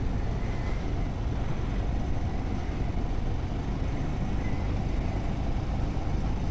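Motorcycle underway on the road: the engine running and the steady rush of riding noise, even and unbroken throughout.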